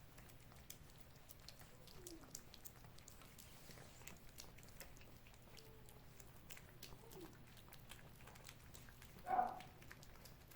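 Cats licking and chewing a soft lickable cat treat: faint wet clicks throughout, with a few soft calls and one short, louder meow about nine seconds in.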